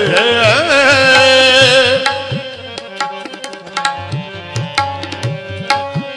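Sikh kirtan: a man's voice ends a sung line on a held, wavering note over a steady drone, then about two seconds in the tabla plays on its own over the held note.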